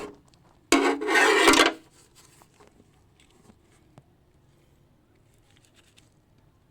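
A harsh rasping scrape about a second long, followed by faint light clicks and taps.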